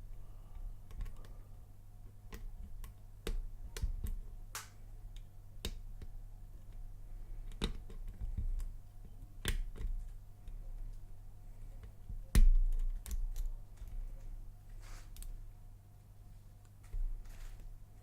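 Lock picks and a tension tool working in the keyway of a laminated padlock, making irregular small metallic clicks and taps, with one louder knock about twelve seconds in.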